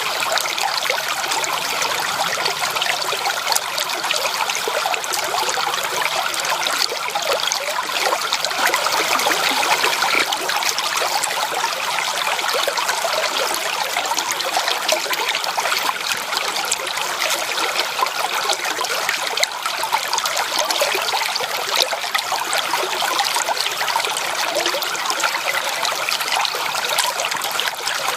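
Stream water flowing steadily, a dense babbling trickle with no deep rumble.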